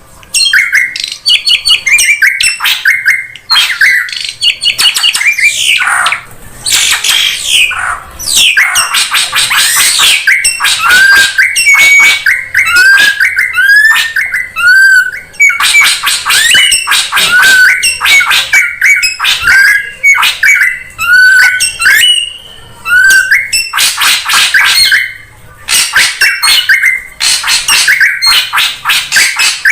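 Drongo calling in a busy, loud stream of harsh, scratchy chattering notes mixed with short clear whistles that hook upward, repeated about once a second through the middle.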